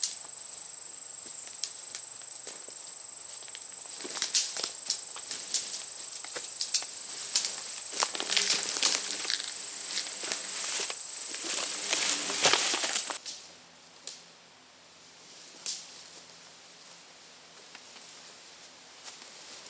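Footsteps with scattered clicks and knocks in the woods, over a steady high-pitched insect drone. About two-thirds of the way through, the drone and the steps stop abruptly, leaving a quieter outdoor background.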